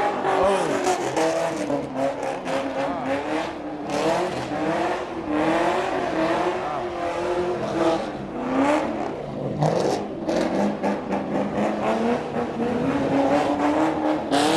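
A car engine revving up and down over and over as the car slides, its tyres spinning on wet pavement.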